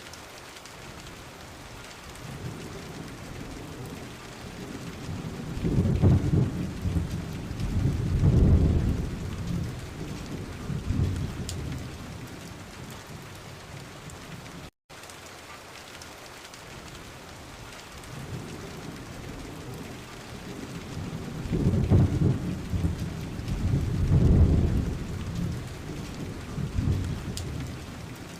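Steady rain with low rolls of thunder, two swelling rumbles close together. After a brief dropout halfway through, the same rain and the same pair of thunder rolls come again.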